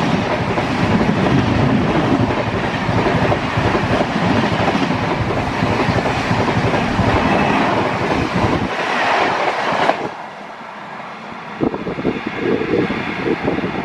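Express train passing close at high speed, its coaches rushing by with wheels clattering over the rail joints. About ten seconds in, the rush cuts off as the last coach goes past, leaving fainter rattling clicks as the train moves away.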